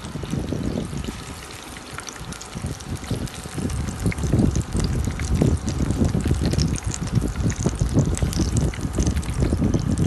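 Battered onion rings frying in hot oil, the oil bubbling and sizzling with irregular crackles, louder from about four seconds in.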